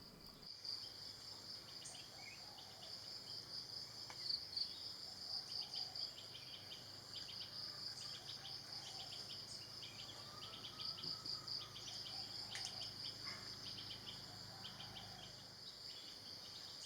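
Forest insects trilling steadily at a high pitch, with runs of rapid chirps over the trill.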